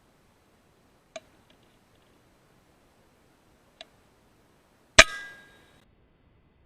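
A .22 PCP air rifle (FX Impact M3) fires a single shot about five seconds in: a sharp, very loud crack followed by a brief ringing tail. Two faint clicks come before it.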